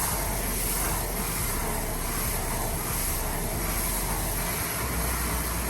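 Water jetting steadily into a wash bucket, whipping car-wash soap into foam; the rush cuts off suddenly just after the end.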